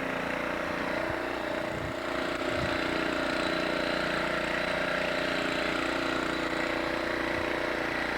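A steady mechanical hum made of several steady tones, like an engine idling, which rises slightly in level about two and a half seconds in.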